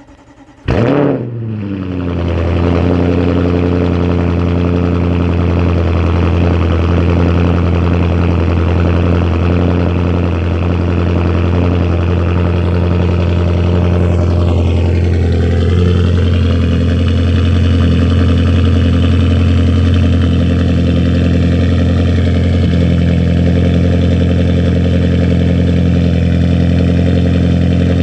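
Audi C7 S6's 4.0-litre twin-turbo V8, straight-piped through downpipes, an X-pipe and with the muffler and resonator deleted, firing up about a second in with a loud flare. It then settles into a steady, loud idle.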